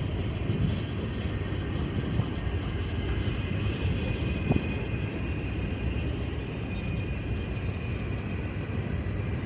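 Freight train rolling past at close range: a steady rumble of cars and wheels on the rails, with a higher rail hiss and a few faint clanks.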